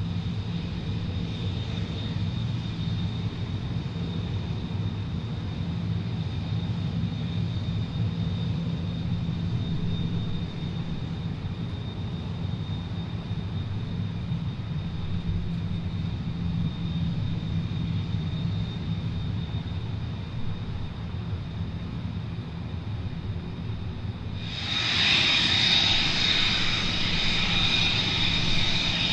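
F-35 fighter's jet engine running with a steady high whine over a low rumble. About 25 seconds in it suddenly grows much louder, with a rushing hiss.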